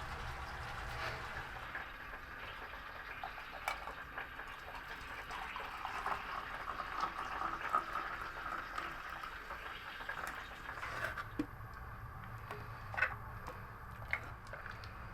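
Food bubbling and sizzling in a pan on a wood stove, a steady hiss broken by scattered small clicks and pops; it thins out about eleven seconds in.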